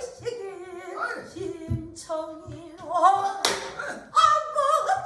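Pansori singing: one voice holding long notes with wavering, sliding pitch, accompanied by sparse strokes on a buk barrel drum.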